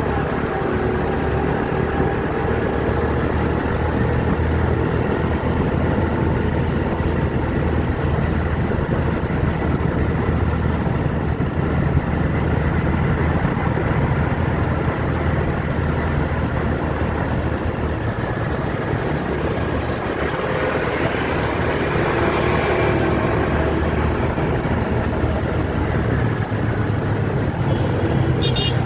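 Steady city road traffic: motor vehicle engines running with a continuous low rumble. A short high-pitched pulsing sound comes near the end.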